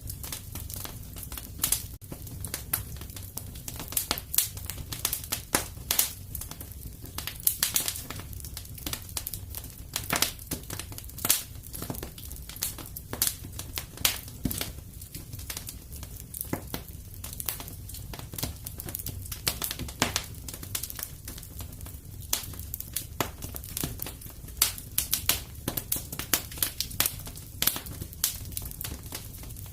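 Wood fire crackling in a fireplace: frequent sharp pops and snaps, several a second and irregular, over a steady low sound of the burning fire.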